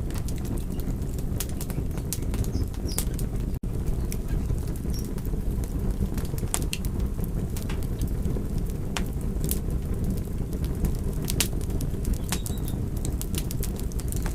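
Crackling fire: irregular sharp pops and snaps over a steady low rumble of the flames, with a brief break in the sound about three and a half seconds in.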